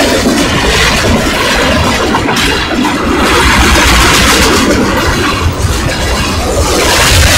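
Freight train of tank cars rolling past close by: a loud, steady rumble and rattle of steel wheels on the rails, swelling about two seconds in and again near the end.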